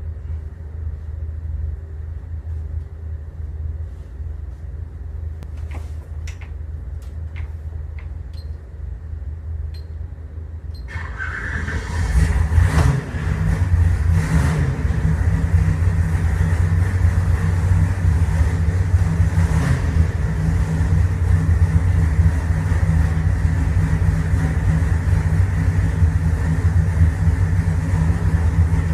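A low steady hum with a few clicks, then about eleven seconds in a freshly built 632 cubic-inch big-block Chevy V8 fires up on the engine dyno for its break-in run. It keeps running, its speed creeping up from idle, heard from the control room through the observation window.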